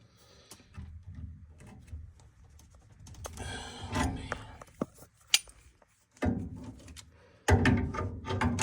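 Hands and tools working on a gas furnace's burner and gas-valve wiring: scattered sharp clicks and taps of small metal parts, with rustling clatter in between that grows busier near the end.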